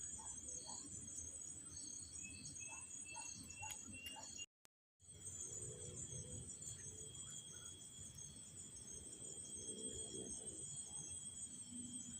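Steady chorus of crickets chirring at dusk, with a short run of higher chirps about three seconds in. The sound cuts out completely for about half a second near the middle.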